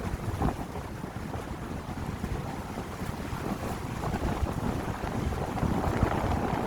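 Wind gusting through seaside pine trees, with low buffeting on the microphone, growing louder near the end.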